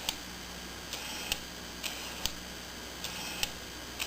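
Tokina 11-16 lens's autofocus motor driving focus over and over: each run is a short, high buzz ending in a sharp click, about once a second, four times.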